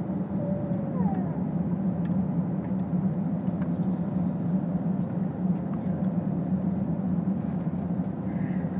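Steady low drone of a jet airliner heard from on board, holding an even level, with a faint high whine over it. A couple of short gliding squeaks come about a second in.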